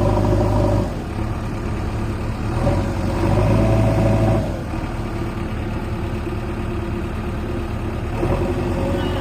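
Diesel engine of a JCB 3DX backhoe loader running, its throttle rising and falling: the engine drops back about a second in, picks up again around three seconds in for over a second, then settles back to a steady run.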